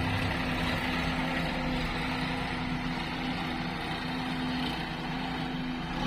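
Diesel engine of working tractor or loader machinery running steadily at an even speed, with a constant low hum over a rough mechanical noise.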